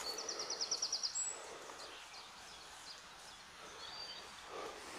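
Woodland birdsong: a fast trill of about ten high repeated notes lasting about a second near the start, with thin high whistles around it and a single shorter note near the end, over a soft background hiss.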